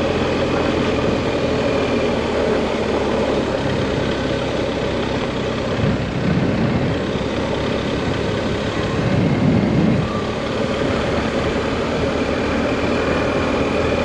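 Adventure motorcycle engine running steadily while riding up a gravel road, with tyre and road noise under it. It swells louder twice, about six and nine and a half seconds in.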